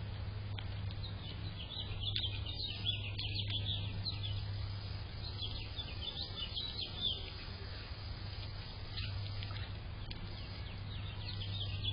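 Small birds chirping: quick runs of short, high notes that come in several bursts, over a steady low hum.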